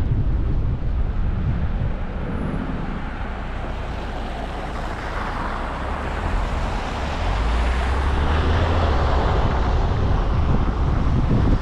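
Road noise from a car being driven: a steady low rumble of wind on the microphone, with tyre hiss that swells about halfway through and again near the end.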